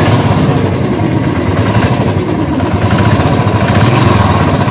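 Royal Enfield Classic 350 single-cylinder engine idling steadily with a knock that the mechanic puts down to a worn connecting rod, on a high-mileage engine with oil leaks.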